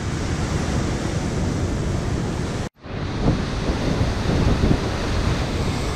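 Wind buffeting the microphone over steady surf, a dense rushing noise heaviest in the low end. The sound cuts out completely for a split second a little under three seconds in.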